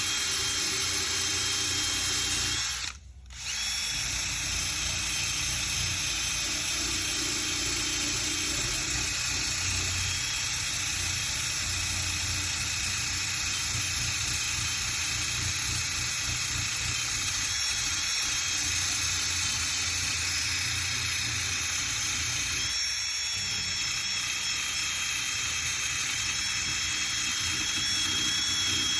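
Power sander running steadily with a high whine as it sands old paint off a metal car hood. It cuts out briefly about three seconds in, then starts again.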